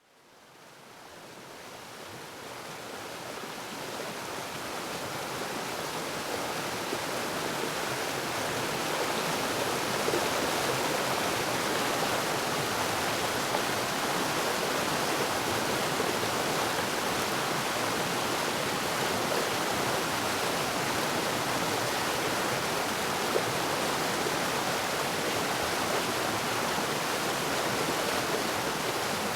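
Waterfall, a dense steady rush of falling water, fading in over the first several seconds and then holding even.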